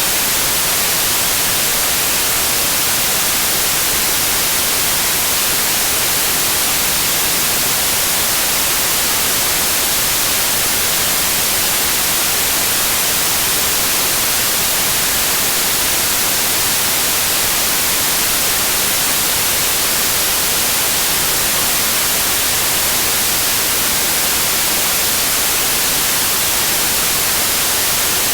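Steady, unchanging white noise: an even, bright hiss.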